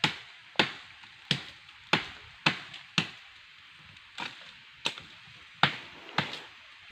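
A series of about eleven sharp chopping strikes, roughly one every half second to second, with a short pause about three seconds in.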